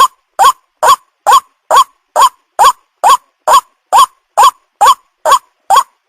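White-breasted waterhen call, a short rising, hooked note repeated evenly a little over twice a second. It is a lure call of the kind used to draw in young waterhens.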